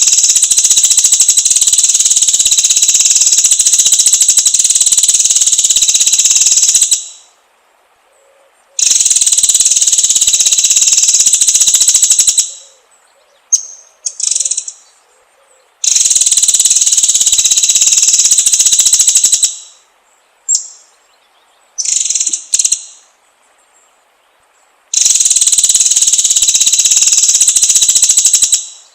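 Loud, steady insect buzzing in four long bursts of about four to seven seconds each, every burst fading away at its end. Short high chirps fall in the gaps between them.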